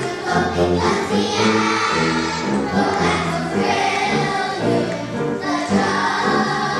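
A group of young children singing a song together, with instrumental accompaniment carrying a steady bass line.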